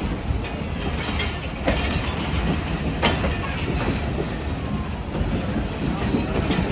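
Hazara Express passenger train running along the track: a steady low rumble with a sharp clack now and then as the wheels pass over rail joints.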